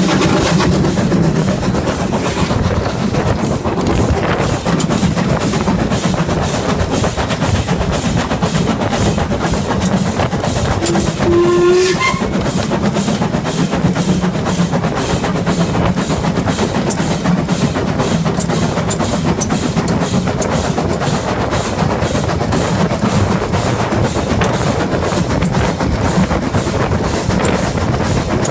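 LMS Ivatt Class 2MT 2-6-0 steam locomotive running, heard from its footplate: a continuous rapid chuffing and clatter of exhaust and cab, with a short whistle blast about eleven seconds in.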